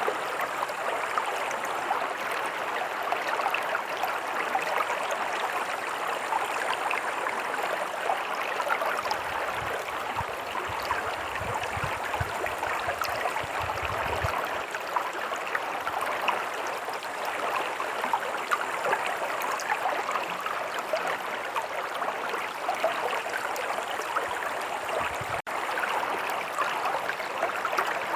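A stream of running water, a steady burbling with many small splashes, with a faint low rumble for a few seconds about ten seconds in.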